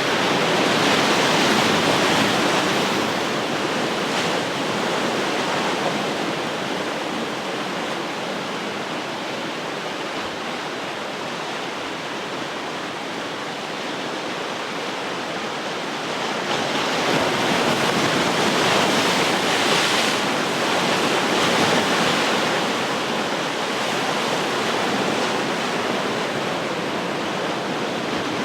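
Ocean surf: waves breaking and washing ashore in a continuous rush, swelling louder twice, near the start and again past the middle.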